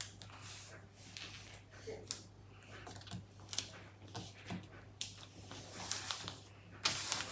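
Soft rustling and handling of a sheet of paper, with scattered light clicks and taps. The rustle grows louder about five seconds in.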